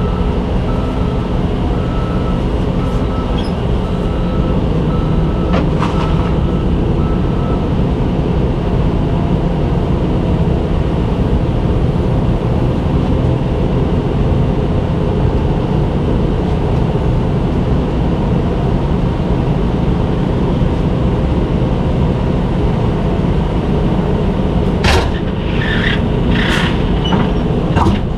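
Vehicle engine idling close by, a steady low rumble. A few short clanks come near the end.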